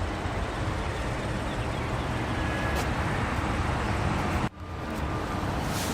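Steady outdoor background rumble and hiss, such as traffic and wind noise, with no engine running. About four and a half seconds in it cuts out abruptly for a moment, then returns.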